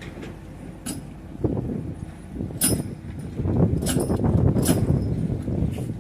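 Excavator running with a low rumble and several sharp metallic clanks, getting louder about halfway through.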